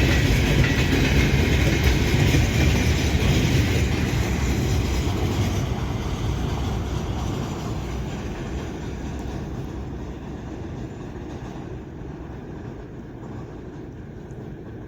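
Freight train rolling past on the rails, a dense rumble of wheels and wagons that fades steadily as the train moves away.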